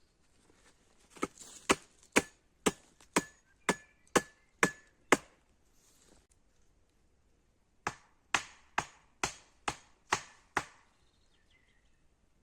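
Axe chopping wood: two runs of steady blows, about two a second, nine strokes then a short pause and seven more.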